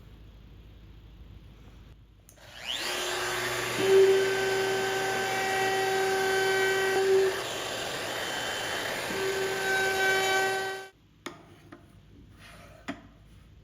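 An electric power tool spins up and cuts wood to make router bit storage slots, running steadily with a strong whine. The whine drops away for a moment in the middle, then comes back before the tool cuts off abruptly. A few light clicks follow.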